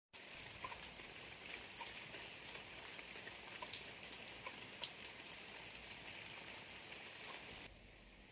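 Rain falling: a steady hiss with many scattered drips and drop impacts, becoming suddenly quieter near the end.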